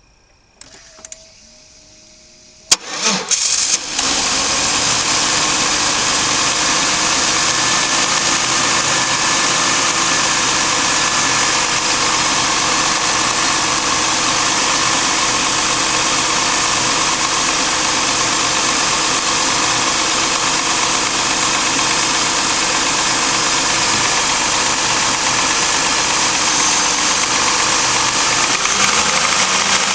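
Buick 3100 series 3.1-litre V6 being started: a click, a brief crank, and it catches about four seconds in, then runs steadily at idle.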